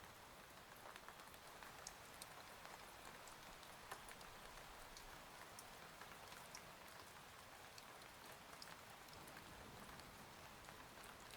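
Faint steady rain, with scattered single drops ticking sharply on a surface.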